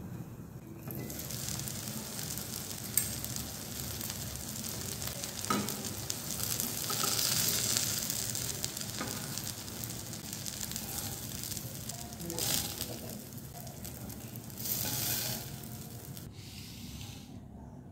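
Masala-coated eggplant slices sizzling in hot oil in a nonstick pan, with a few short clicks of metal tongs against the pan as the slices are lifted out. The sizzling drops off near the end.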